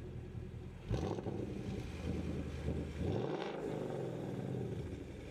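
2015 Mustang GT's 5.0 V8 through an MBRP 3-inch catback exhaust, running steadily and then accelerating hard about a second in. The engine note climbs, dips briefly about three seconds in, and climbs again.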